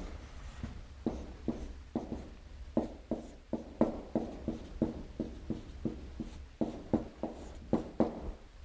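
A series of short, light taps or knocks, irregularly spaced at about two to three a second, over a faint steady low hum.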